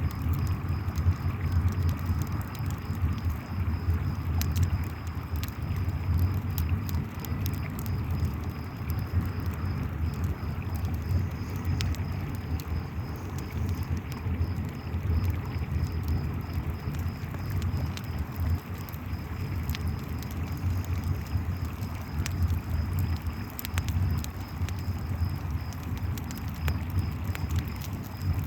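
Campfire crackling with scattered sharp pops over the steady rush of a flowing river, with crickets trilling faintly and evenly in the background.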